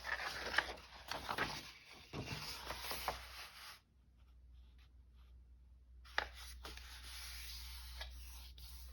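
Sheets of paper being handled and rustled as they are counted out, with a few light taps and clicks. It goes quieter for about two seconds in the middle, then a soft rustle resumes.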